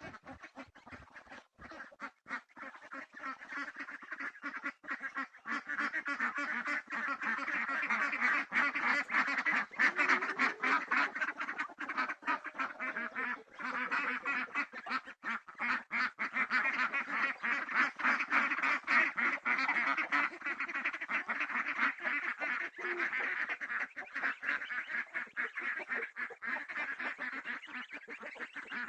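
A flock of domestic geese and ducks calling all together, a dense, unbroken chatter of overlapping honks and quacks that builds up over the first few seconds and then keeps on.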